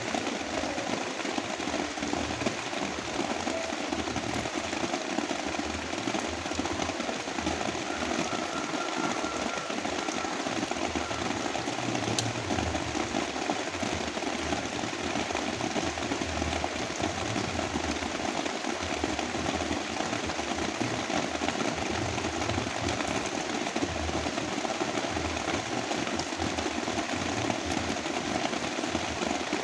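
Heavy rain falling steadily, layered with brown noise: an even, unbroken hiss with a low rumble underneath.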